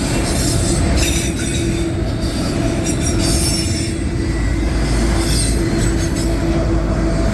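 Loaded autorack freight cars rolling past close by: a continuous rumble and rattle of steel wheels on rail, with a steady high tone running over it.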